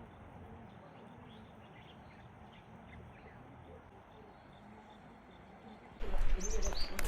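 Faint birds chirping, a scatter of short high calls over a quiet outdoor background. Near the end a much louder noise sets in.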